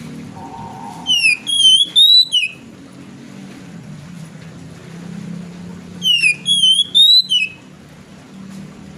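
Oriental magpie-robin (kacer) singing: a short, loud whistled phrase that climbs in pitch and ends in a quick drop, given twice about five seconds apart over a low steady hum.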